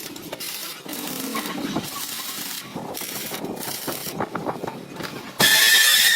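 Irregular metallic clanks and rattles, then a sudden, much louder steady noise with a high whine in it starts about five seconds in.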